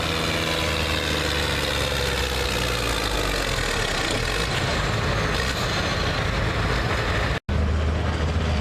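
Modified pulling tractor engine running, its pitch sliding slowly down over the first few seconds and then holding steady. The sound cuts out completely for an instant about seven and a half seconds in.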